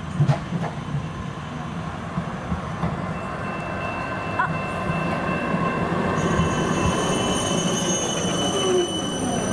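A rail vehicle running past on steel rails, with a steady rumble and a rising wheel squeal. A thin high squeal sets in about three seconds in, and higher squealing tones join about six seconds in.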